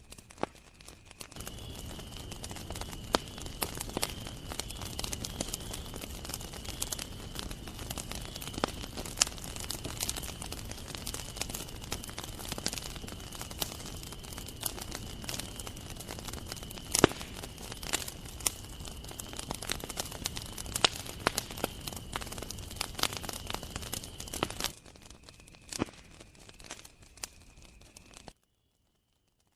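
Campfire crackling and popping, with sharp snaps over a soft low rumble of burning, under a steady high trill of crickets. The fire sound steps down to a quieter crackle a few seconds before the end, then cuts off abruptly, leaving the crickets faint.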